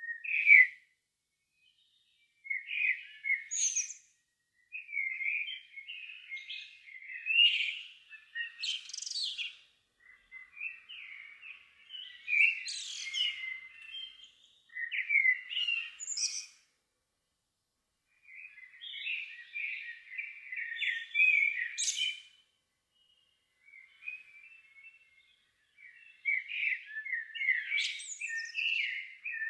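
Songbird singing in a string of short warbling phrases, each a couple of seconds long, many ending in a high squeaky note, with short pauses between phrases.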